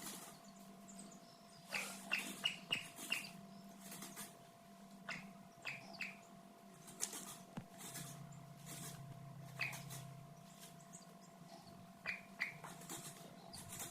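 Chickens peeping: short, high, falling chirps in quick little runs, a handful about two seconds in and again around five and twelve seconds, over scattered light rustling and a faint steady hum.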